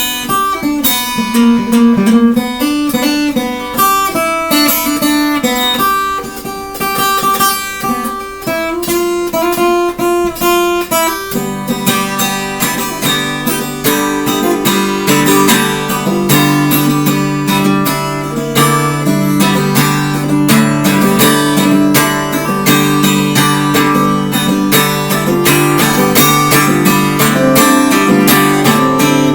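Solo acoustic guitar: a picked single-note melody for roughly the first eleven seconds, then strummed chords in a steady rhythm.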